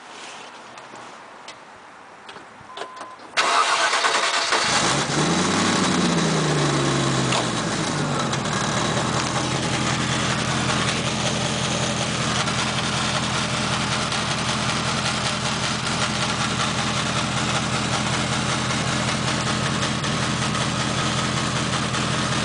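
1997 Land Rover Discovery engine starting about three seconds in, its revs flaring up and falling back over a few seconds, then settling into a steady idle, heard through the original muffler.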